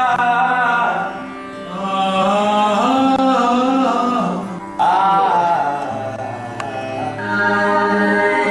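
Singing voices holding long, chant-like notes over a steady drone, with an abrupt cut to a new held chord about five seconds in.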